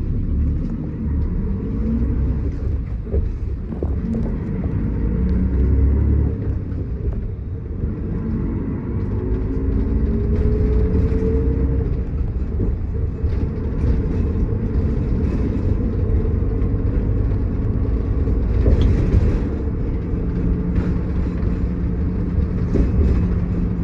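Route bus driving, heard from inside the cabin: the diesel engine and drivetrain rumble, and their pitch rises twice as the bus picks up speed. A steady hum comes in near the end.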